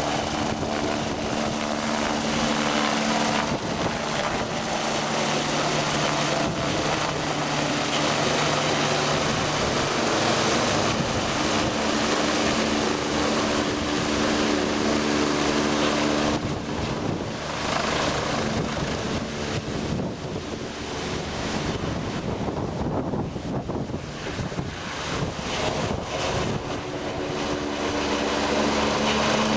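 BK117 twin-turbine helicopter running, a steady engine and rotor hum over a broad rushing noise. The hum fades for a stretch past the middle, leaving mostly the rush, and comes back strongly near the end.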